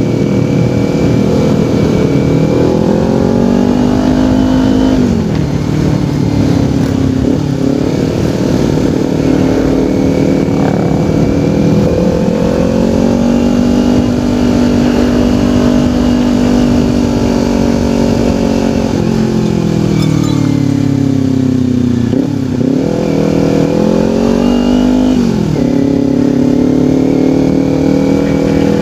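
Kawasaki Ninja 250 parallel-twin engine pulling through the gears while riding: the engine note rises and drops at each upshift, holds steady at cruising speed, sags as the rider eases off, then climbs again.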